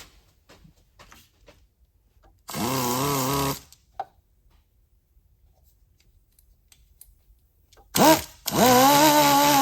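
Power tool spinning a small flap wheel, run in short bursts to deburr a part: a one-second run, a brief blip, then a longer run, each whining up in pitch as the motor spins up.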